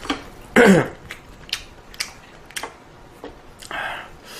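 Close-miked eating of ramen. About half a second in there is a short hummed vocal sound with falling pitch. It is followed by separate sharp mouth clicks of chewing or lip-smacking, roughly every half second, and a brief noisy slurp near the end.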